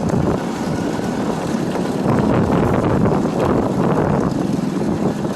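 Wind buffeting the microphone over the rumble of a motorbike on the move.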